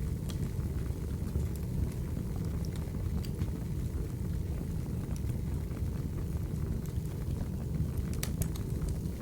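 Wood fire burning, with a steady low rumble and scattered sharp crackles and pops, a few close together near the end.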